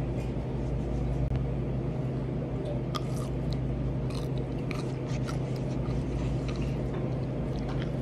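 Chewing and crunching bites of a whole raw cucumber close to the microphone, with short crisp crunches that come thicker from about three seconds in. A steady low hum runs underneath.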